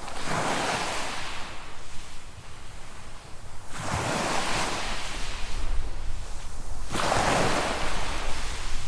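Small waves breaking and washing up a sandy beach, three washes about three seconds apart, each swelling and fading away.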